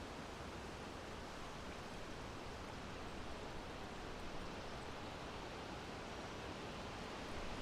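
Steady wind, an even rushing noise that neither gusts nor changes.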